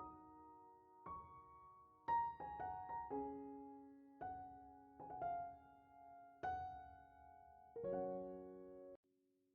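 Background piano music: slow single notes and chords, each struck and left to fade. It cuts out briefly near the end, then resumes.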